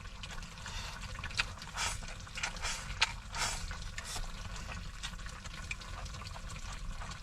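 Eating sounds: irregular soft clicks of utensils against a bowl and wet mouth sounds, over a steady low hum.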